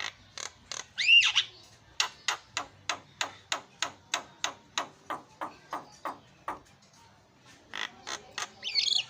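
Javan myna calling: a loud curving whistle about a second in, then a long run of short, sharp notes at about three a second, with more harsh notes and another whistle near the end.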